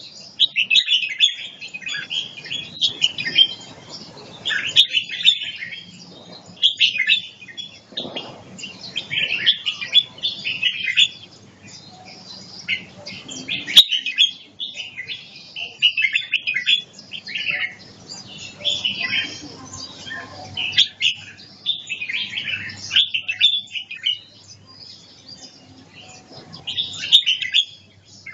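Red-whiskered bulbul of the Chong Chi song line singing, short phrases repeated every second or two with brief pauses between them.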